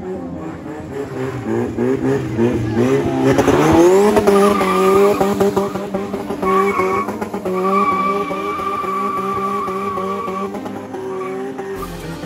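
Car drifting: the engine revs up and is held high while the tyres squeal steadily for several seconds.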